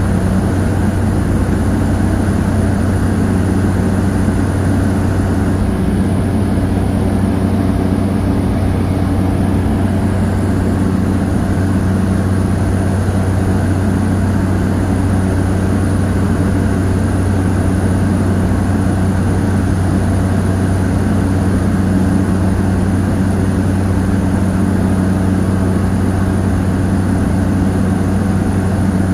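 Cessna 208 Caravan's single Pratt & Whitney PT6A turboprop and propeller heard from inside the cabin as a loud, steady drone, with no change in pitch or level.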